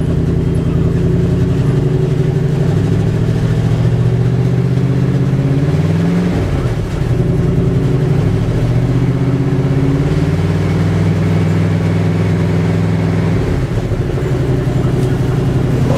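1974 Dodge 318 V8 running at a cold idle, not yet warmed up, with a small exhaust leak. The engine speed dips and picks back up about six seconds in, and shifts again a couple of times later.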